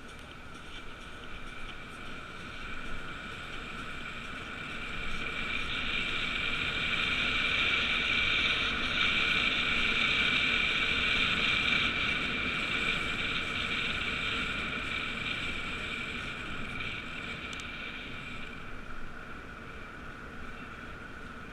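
An ambulance siren from FDNY EMS, growing louder to a peak about halfway through and then fading as it passes, over wind and road noise.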